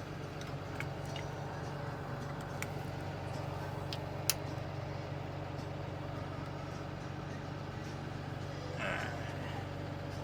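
Steady low drone of an engine running, with a few light metallic clicks and taps from tools or fittings being handled; the sharpest click comes about four seconds in.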